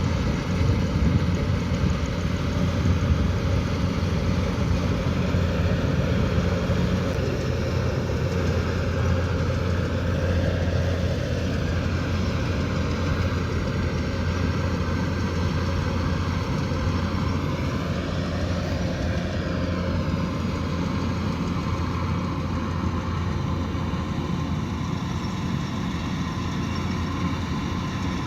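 Kubota DC108X combine harvester running steadily under load: a deep diesel engine hum mixed with the rattle of the cutting and threshing machinery. The tone sweeps slowly up and down partway through.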